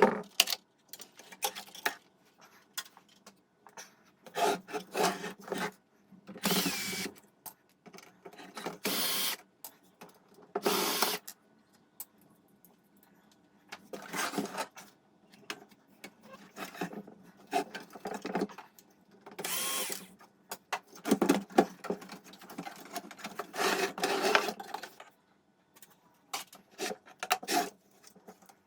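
Small power tool running in short bursts, about a dozen times, with handling clicks and clatter between them, as the AIWA JAX-V3 stereo is worked on.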